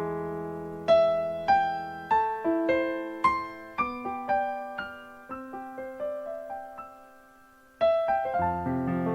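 Soft background piano music: single notes struck one after another in a slow melody that thins out and nearly stops, then resumes with fuller chords near the end.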